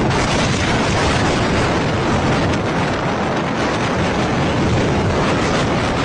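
Strong storm wind rushing over the microphone: a loud, steady noise with a low rumble, unbroken throughout.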